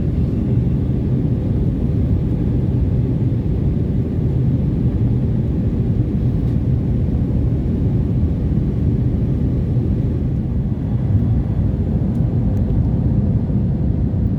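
Steady low rumble of airflow and engines heard inside the cabin of an Airbus A320-232 in flight, on descent towards landing.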